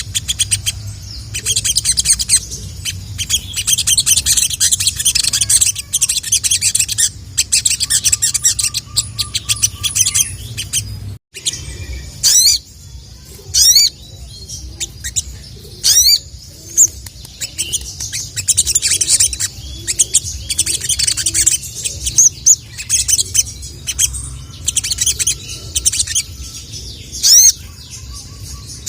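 Male sogon (little spiderhunter) calling with rapid high chirps and sharp, quick falling 'cuit cuit' notes, the call used to challenge a rival male. The sound drops out briefly about eleven seconds in, and a low steady hum runs underneath.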